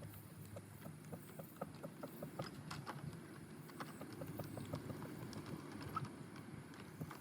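Wheels of a 7.5-inch-gauge miniature train rolling along the track, clicking rapidly and fairly regularly over the rail joints, over a steady low rumble.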